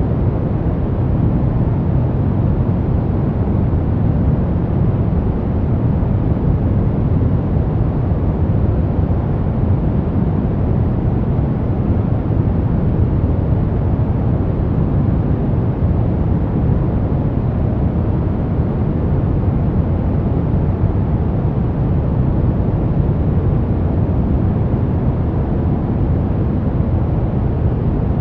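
Steady brown noise: a deep, even rumbling hiss with most of its weight in the bass, unchanging throughout.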